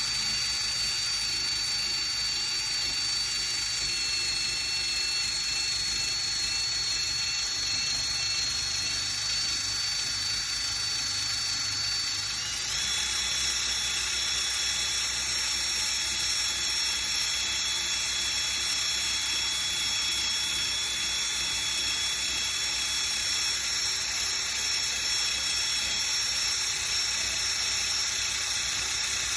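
Power sander running steadily on a car hood, sanding off old paint: a high whine over a hiss, the whine stepping up to a higher pitch about twelve seconds in.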